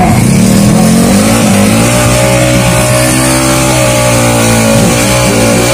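Tuned 200cc single-cylinder automatic-scooter drag bike engine revved at the start line: the revs climb about a second and a half in, then are held high and steady with slight wavering.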